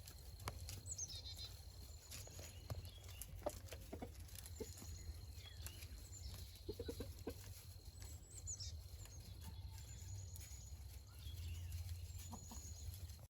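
Chickens clucking quietly, with a quick run of low clucks about seven seconds in, over scattered thin high-pitched chirps and a steady low rumble.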